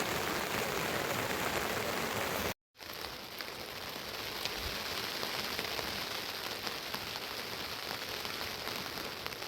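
Steady rain falling, an even hiss of drops. It is broken by a brief total silence about two and a half seconds in, after which the rain sounds lighter and hissier.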